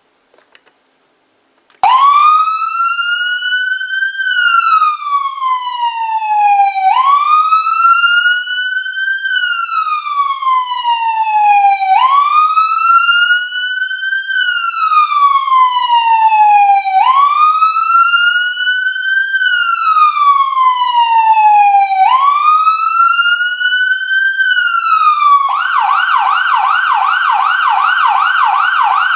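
Whelen 295SLSA1 electronic siren played through two 100-watt speakers inside a helicopter hangar. After about two seconds of quiet it starts a slow wail, rising and falling about every five seconds for five cycles. Near the end it switches to a fast yelp of about three to four sweeps a second.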